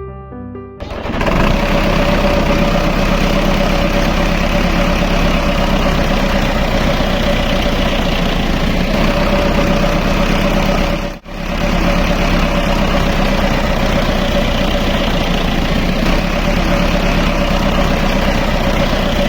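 Tractor engine running steadily at idle, with an even drone. It starts about a second in and cuts out for an instant about eleven seconds in.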